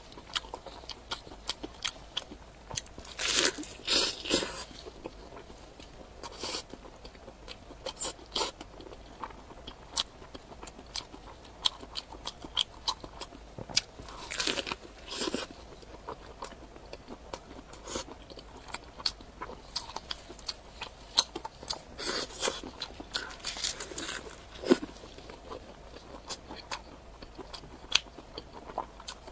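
Close-miked eating: crunchy bites and chewing, with sharp crackling crunches that come in clusters, the densest a few seconds in, around the middle and again past two-thirds of the way through.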